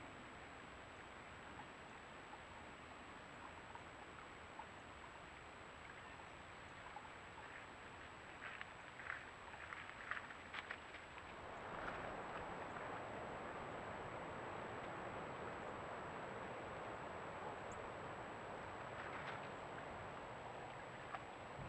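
Faint outdoor ambience picked up by a trail camera's microphone: a steady hiss with a constant thin high whine. A few short faint clicks or chirps come near the middle, and the hiss turns louder a little past halfway.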